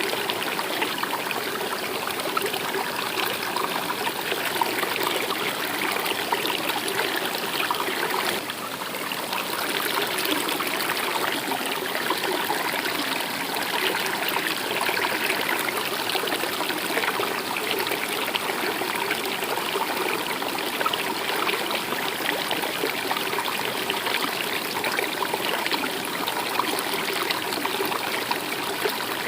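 Stream water running and babbling steadily, with a brief slight dip about eight seconds in.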